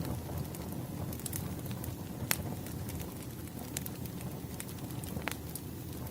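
Wood fire burning with a steady low rumble, and scattered sharp crackles and pops of burning logs, the loudest about two seconds in.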